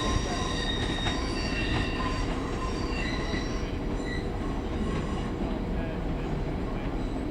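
Train wheels squealing against the rails as a train moves slowly through the station: several high squealing tones come and go over a low rumble, then thin out after about five seconds.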